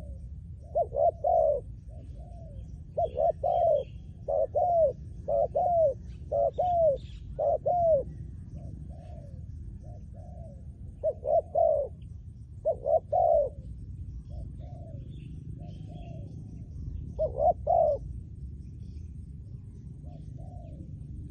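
Spotted dove cooing: phrases of short, low, rounded coos, loudest in clusters about a second in, from three to eight seconds, around twelve seconds and near eighteen seconds, with softer coos between. Faint chirps of small birds and a steady low rumble lie underneath.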